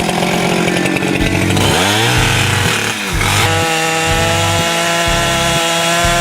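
Chainsaw running at high revs, its pitch dipping and recovering twice about two and three seconds in, then holding steady while it cuts into a tree.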